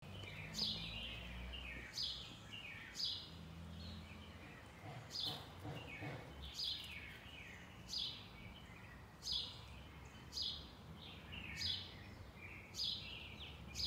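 A bird singing the same short phrase over and over, about once every second and a bit: a sharp high note that falls away in a quick descending run. A faint low hum lies underneath.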